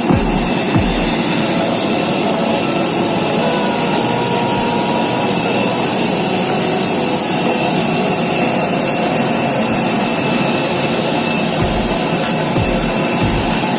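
Airliner jet engines running: a steady, loud, even rush with a few faint high steady tones in it and occasional low thumps.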